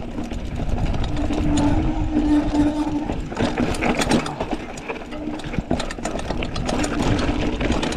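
Mountain bike riding down a rough trail: the bike rattling and clattering over rocks and bumps, with wind on the microphone and a buzzing hum that comes and goes.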